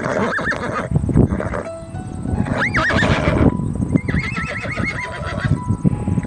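Horse neighing: short rising-falling neighs about half a second and about two and a half seconds in, then a long quavering whinny about four seconds in, over a steady run of hoof thuds.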